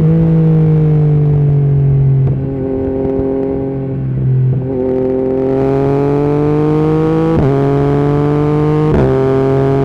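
Yamaha MT-09's three-cylinder engine through an Akrapovic carbon exhaust with the dB killer removed, pulling under load. The pitch climbs and then drops with a brief break about four times as the rider shifts up through the gears.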